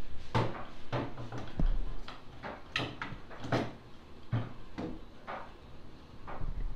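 A run of sharp, irregular knocks, roughly one every half to three-quarters of a second, with a couple of duller low thuds among them.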